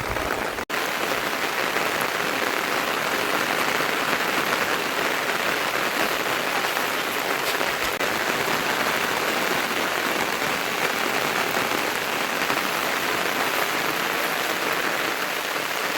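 Steady rain falling and pattering on surfaces, an even hiss that cuts out for an instant less than a second in.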